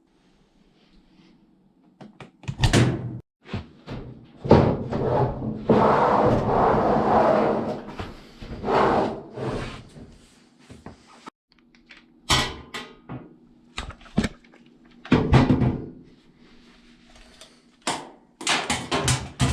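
A series of clunks and knocks, as of an appliance's door or panels being handled, with a few seconds of continuous rustling noise near the start and a quick cluster of knocks near the end.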